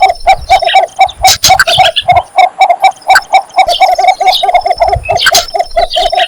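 Cinnamon bittern giving its advertising call to attract a mate: a long, even series of low, short notes, about five a second.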